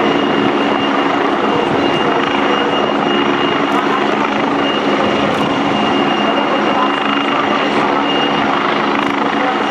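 Helicopter running steadily, a constant, even mix of engine and rotor noise with no change in pitch.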